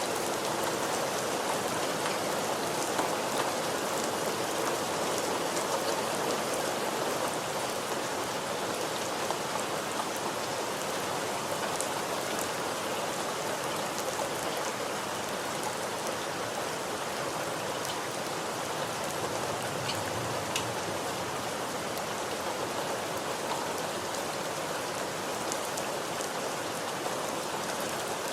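Steady rain falling, a constant hiss of rain on surfaces with scattered individual drops ticking through it.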